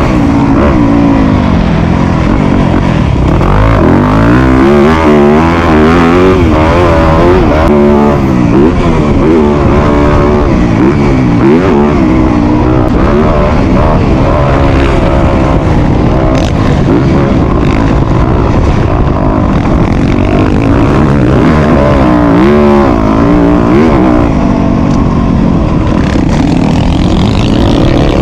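Motocross dirt bike engine, loud and close, revving up and dropping back again and again as the throttle is worked and gears change, its pitch rising and falling every second or two.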